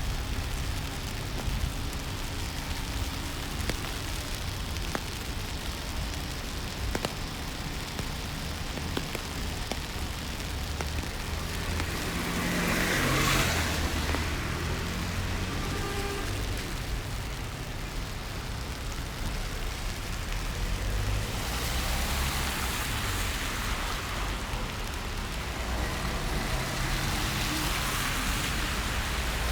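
Wet city street in the rain: a steady hiss of rain and low traffic rumble, with a car swishing past on the wet road about halfway through, the loudest moment, and a softer pass later on.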